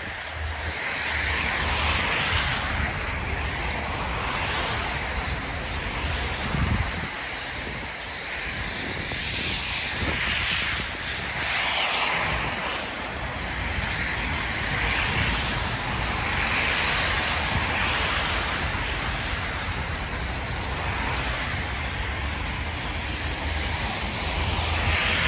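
Wind during a snowstorm buffeting the microphone: a continuous rushing hiss that swells and fades every few seconds, over a low rumble.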